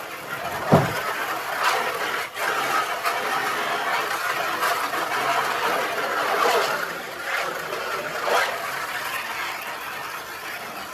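Water running and splashing into a container as the birds' drinking pans are filled, a steady rushing noise, with a single thump about a second in.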